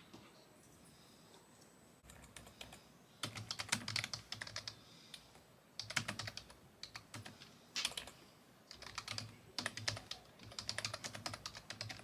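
Typing on a computer keyboard in several short bursts of rapid key clicks with brief pauses between them, starting about three seconds in after a few seconds of quiet room tone.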